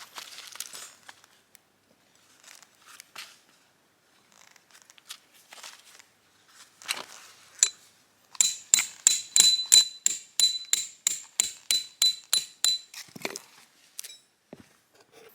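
A quick, even series of metal-on-metal taps, about four or five a second, each with a short bright ring, after a few scattered knocks and rustles.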